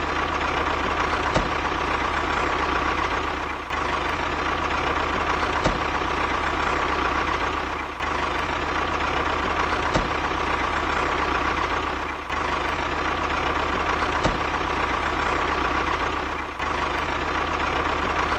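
A motor running steadily with a constant whine, dipping briefly about every four seconds.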